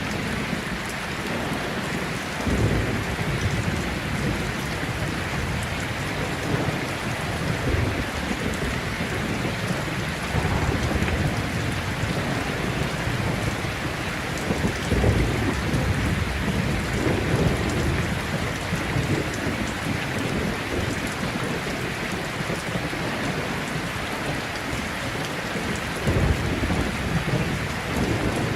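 Steady heavy rain falling throughout, with low rolls of thunder rumbling several times: about two seconds in, around ten seconds, a longer roll from about fifteen to eighteen seconds, and again near the end.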